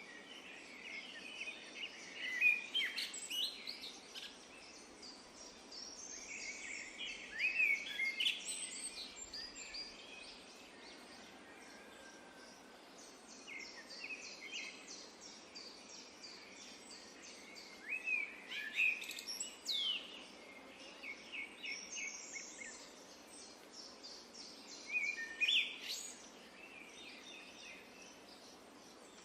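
Songbirds singing in short phrases of chirps and rapid trills, one phrase every few seconds, over a steady low background hiss.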